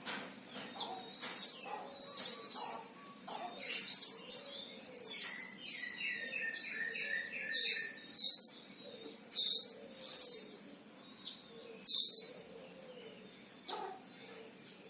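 A white-eye of the kind sold as 'mantenan Himalaya' singing: many loud, short, high chirpy phrases in quick bursts, with a lower run of quick notes around the middle. The bird is singing readily and at length.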